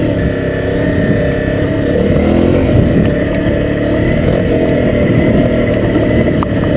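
Honda CRF250L's single-cylinder four-stroke engine running on a dirt trail ride, its revs rising and falling as the throttle is worked.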